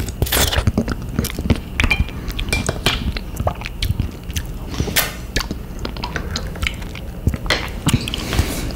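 Close-up mouth sounds of chewing frozen avocado ice cream: wet smacks and small irregular clicks.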